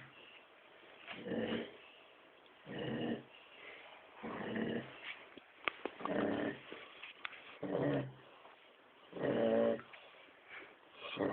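A female dog snoring: a rasping, pitched snore about every second and a half, seven in all, with a couple of sharp clicks near the middle.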